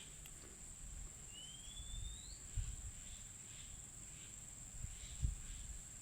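Outdoor wildlife sound: a steady high-pitched insect trill, with one rising bird whistle about a second and a half in, followed by a run of faint short bird notes about two a second.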